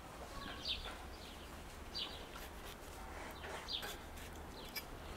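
Faint bird chirps: several short, falling calls spread a second or so apart over a low steady hum.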